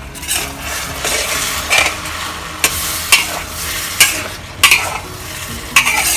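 Noodles and seafood sizzling in a hot wok as a spatula tosses them, with sharp scrapes and knocks of the spatula against the wok about seven times.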